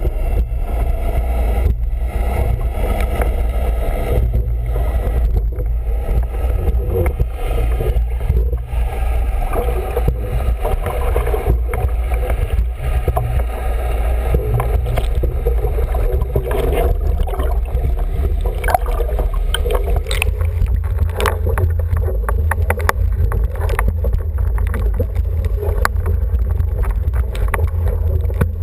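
Wind buffeting the microphone over water rushing along the hull of an International 14 sailing dinghy under way, with scattered sharp clicks in the last third.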